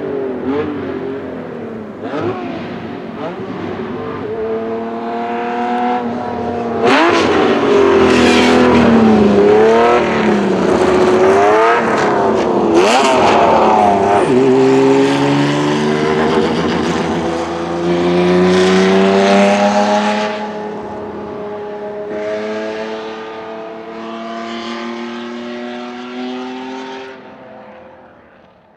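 Ferrari 1512's 1.5-litre flat-12 racing engine going past at speed. The pitch swoops up and down, then climbs in steps through the gears as the car accelerates away, and the sound fades near the end.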